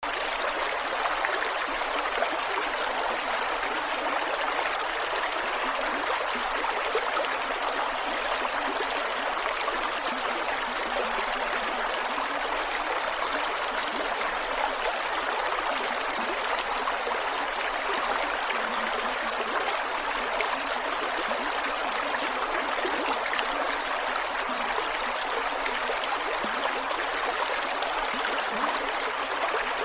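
Creek water flowing over rocks, a steady rush with gurgling. The level stays even throughout.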